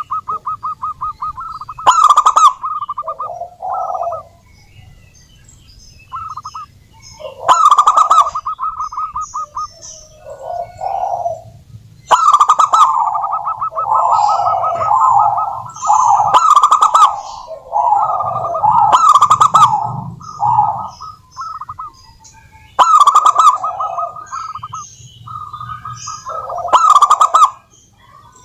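Several zebra doves (perkutut) cooing together, their rapid, rattling staccato coos overlapping almost without a break. A louder, harsher call bursts out every four to five seconds.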